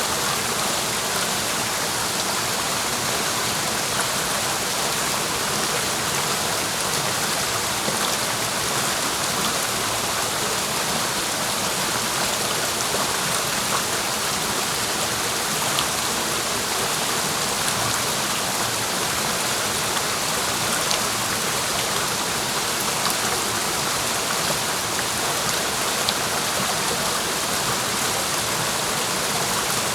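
Clear mountain stream flowing, a steady even rush of water.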